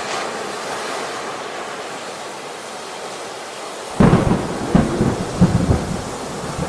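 Steady rain, then about four seconds in a sudden thunderclap that rumbles on with several loud cracks for a couple of seconds.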